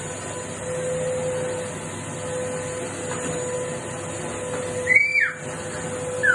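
Household vacuum cleaner running steadily, a drone with a constant hum-like tone. About five seconds in, a short high-pitched cry rises and falls over it.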